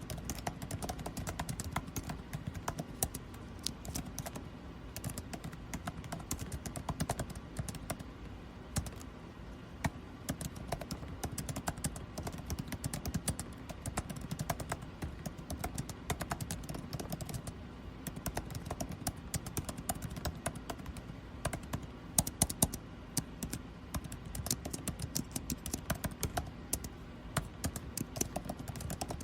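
Typing on a computer keyboard: quick, irregular key clicks that go on continuously, with a few harder strokes about three quarters of the way through. Under them runs the steady low hum of air conditioning.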